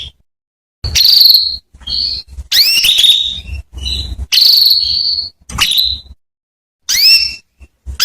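Female canary calling: a run of about eight short, high calls with brief gaps between them. Some sweep quickly upward and others are held as short whistled notes. This is the kind of call used to lure a male canary into full song.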